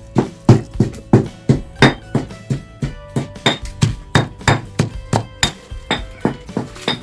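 Repeated hard knocks at a steady pace, about three a second, like food being pounded or chopped, with music faintly behind.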